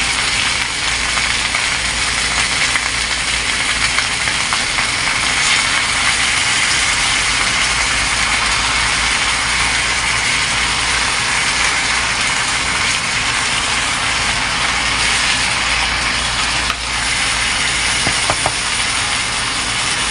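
Diced tofu and chicken liver sizzling steadily as they fry in an electric pot, with a few light clicks.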